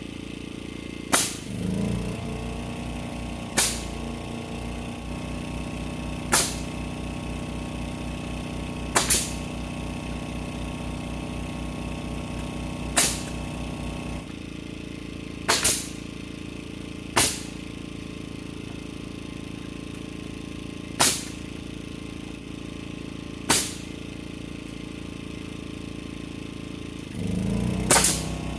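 About ten short, sharp knocks, one every two to four seconds, over a steady background.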